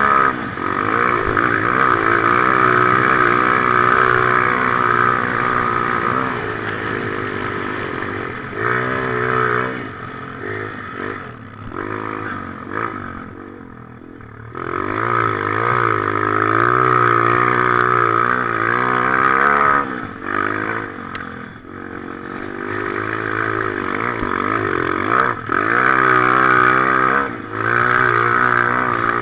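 Motocross motorcycle engine being ridden hard, revving up and easing off over and over, with the throttle rolled back about ten to fourteen seconds in and again around twenty-one seconds before it picks up again.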